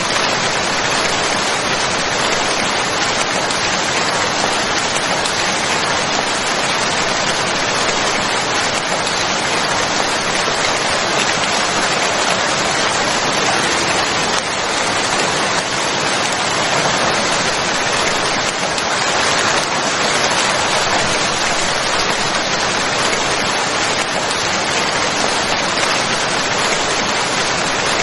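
Rain falling steadily, an even hiss of many drops with no breaks.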